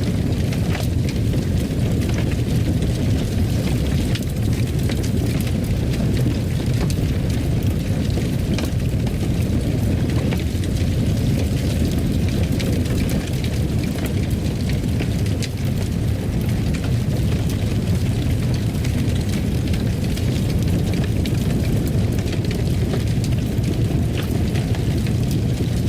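Fire burning in a fireplace: a steady low rumble with faint, scattered crackles.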